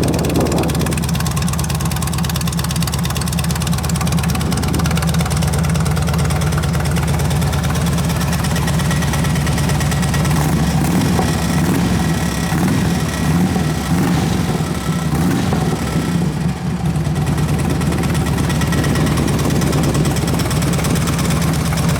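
2008 Harley-Davidson Electra Glide Classic's air-cooled Twin Cam 96 V-twin idling steadily through open slip-on mufflers, with a fast, even pulsing.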